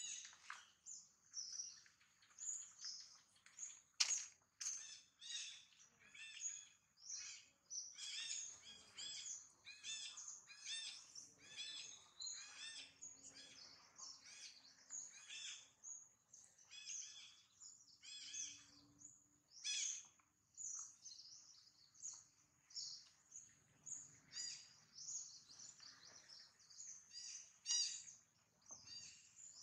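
Birds chirping and calling, with many short, high-pitched calls in quick succession and a single sharp click about four seconds in.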